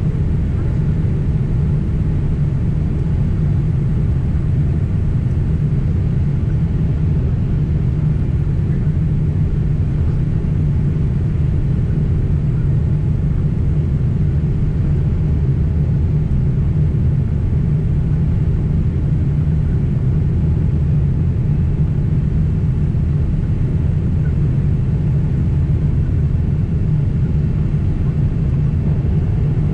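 Cabin noise inside a Boeing 767 airliner in flight: a steady, even rumble of the engines and airflow, heavy in the low end.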